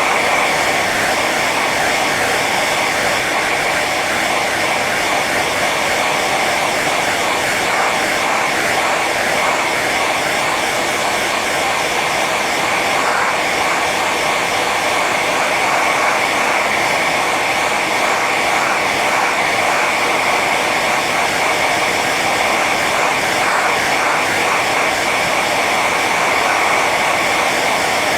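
Hair dryer running steadily on its high setting: an even rush of blown air with a steady whine from the fan motor.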